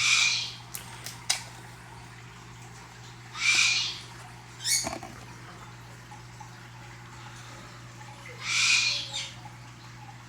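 Three short, harsh bird squawks a few seconds apart, with a single click between the second and third, over a steady low electrical hum.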